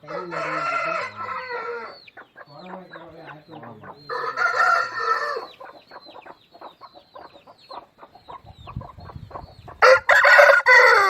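Roosters crowing three times, each crow about a second and a half long, the last the loudest, with faint short chirps and clucks between.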